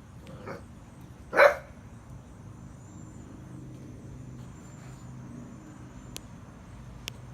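A bulldog barking once, loudly and briefly, about a second and a half in, after a softer short sound just before it. Two faint clicks come near the end.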